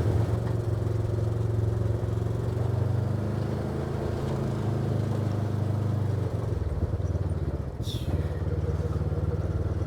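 Vehicle engine running steadily at low speed, a constant low hum as it travels over rough dirt road.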